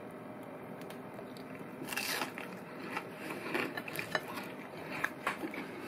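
A bite into a crisp breadcrumb-coated fried dill pickle about two seconds in, followed by crunchy chewing with sharp crackles.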